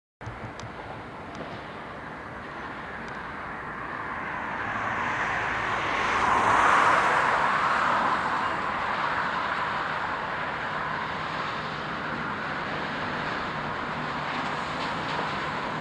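A train approaching and passing on the rails, its rumble swelling to its loudest about six or seven seconds in and then settling to a steady run.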